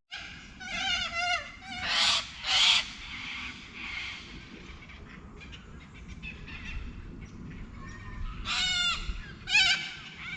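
Birds calling outdoors: a run of harsh, wavering calls, with louder calls about two seconds in and again near the end.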